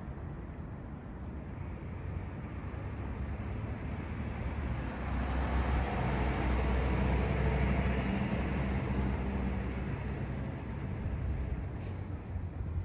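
A vehicle passing by: a low engine and road rumble that swells to a peak midway and fades away over about ten seconds.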